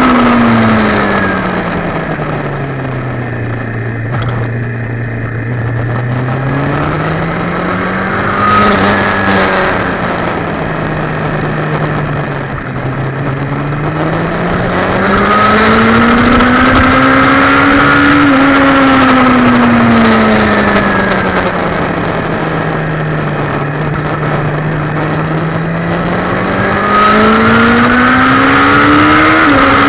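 Sport motorcycle engine heard from the rider's position, its note sinking and climbing in slow sweeps as the bike slows for corners and accelerates out again, with a brief hitch near the end like a gear change. Wind rush underneath.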